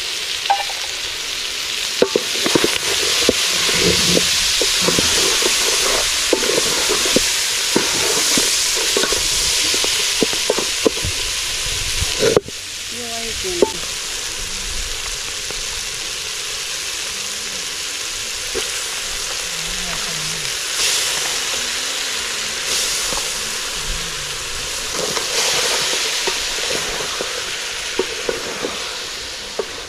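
Meat and tomatoes sizzling and frying in a metal pot over a wood fire, with a wooden spoon stirring and knocking against the pot. About twelve seconds in the sizzle drops abruptly and carries on quieter.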